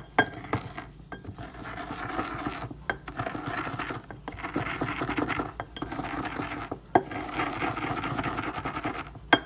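Eggshells being ground with a pestle in a mortar: a continuous gritty scraping, broken by short pauses every second or two, with a few sharp knocks.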